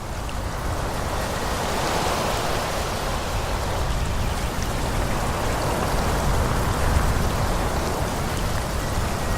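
Wind rushing through forest trees: a steady, even noise that swells slightly in gusts, with a low rumble underneath.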